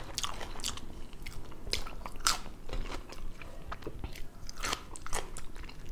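A person chewing a mouthful of burger and loose raw vegetables into a close microphone, with irregular crisp crunches.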